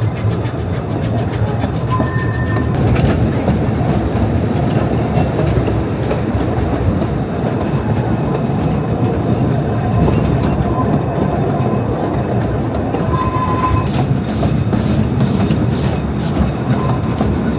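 Narrow-gauge train running past, with steady rumbling and clattering of wheels on the track. Near the end comes a quick run of about six short, high hissing pulses.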